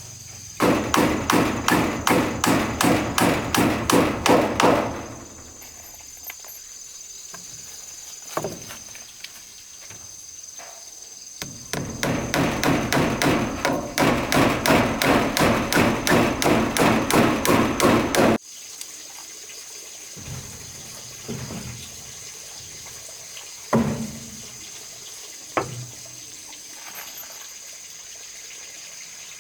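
Hammer blows on wood in two fast runs, about three or four strikes a second, each run lasting several seconds, then a few single knocks. A steady high insect drone sounds underneath.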